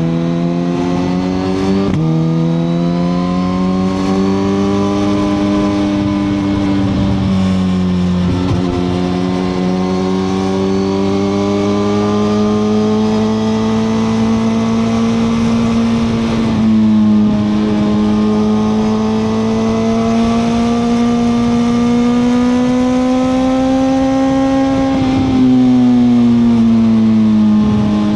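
Suzuki GSX-R1000R's inline-four engine pulling under way, its pitch climbing slowly over several seconds at a time and dropping sharply four times between the climbs.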